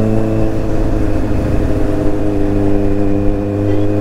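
Kawasaki Z800 motorcycle's inline-four engine running at a steady, unchanging pitch while cruising.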